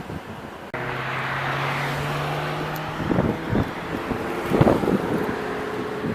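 A supercar engine running with a steady note, cutting in suddenly about a second in, then several louder surges past the middle.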